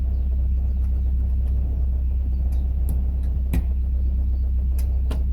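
Narrowboat diesel engine running at idle with a steady low drone. A few sharp metal clinks come about three to five seconds in as the chimney is set onto the welded flue collar.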